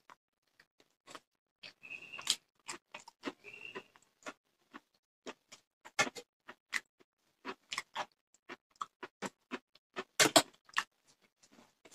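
A person chewing and smacking their lips over a mouthful of rice and fish: a string of short, sharp clicks at an uneven pace, with a louder cluster near the end.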